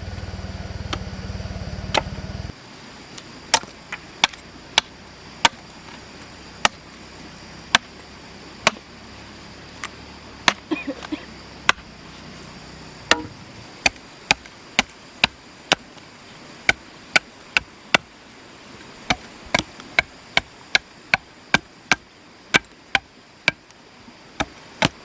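Repeated chopping strikes of a blade biting into wood, roughly one to two strokes a second with short pauses. A low steady hum underneath cuts off about two and a half seconds in.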